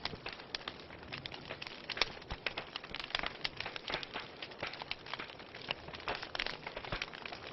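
Wood fire burning in a fireplace, crackling with many sharp, irregular pops over a steady hiss.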